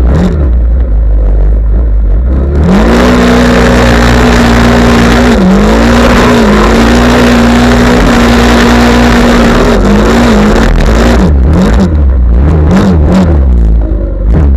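Off-road vehicle engine revved up and held at high revs for about seven seconds, very loud, with a rough noise over it. Then the revs drop and bob up and down a few times before easing off near the end.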